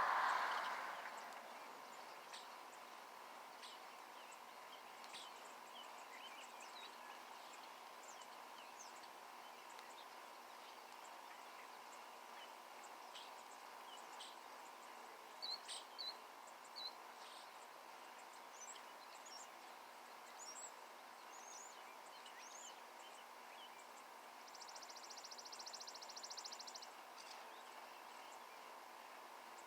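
Small birds chirping sporadically in short high notes, with a few louder chirps about halfway through. Near the end comes a rapid, buzzy trill of about two seconds, with a faint steady hum underneath throughout.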